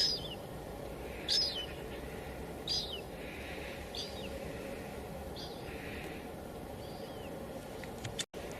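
Light drizzle pattering on a window as a steady hiss, with a bird chirping over it, one short call about every second and a half. The sound cuts out for an instant near the end.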